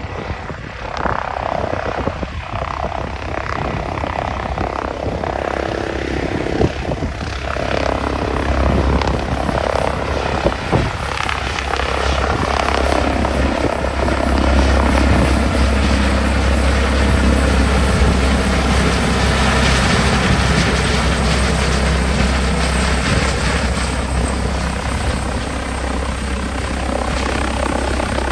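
Medical helicopter's rotor and turbine engine running, growing louder about eight seconds in and then holding steady.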